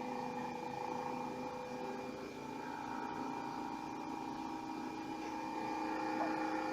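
LG refrigerator running with a steady hum made of several constant tones. This is the excessive noise being diagnosed, which she supposes comes from one of the internal fans.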